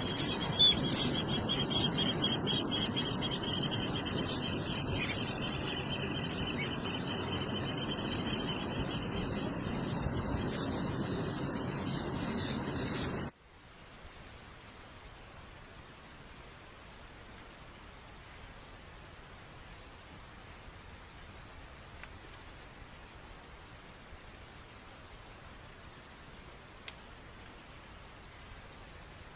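A dense chorus of many birds singing and chirping over a background hiss. About thirteen seconds in it cuts off suddenly, leaving a single steady, high-pitched insect trill.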